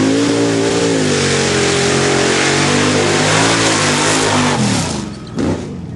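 Mud bog truck engine at full throttle through the mud pit, held high and fairly steady. About five seconds in the revs fall away as the driver lets off, followed by one short rev.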